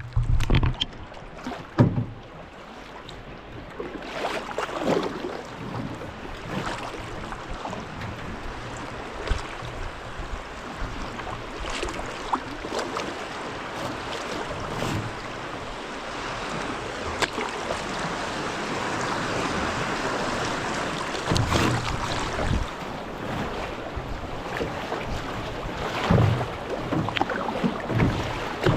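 Rushing water of a river rapid around a canoe, swelling a little past the middle, with occasional paddle splashes and knocks against the hull. Wind buffets the microphone.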